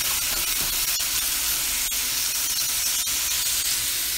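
Ground beef with onions and peppers sizzling in olive oil in a hot skillet: a steady frying hiss with scattered crackles.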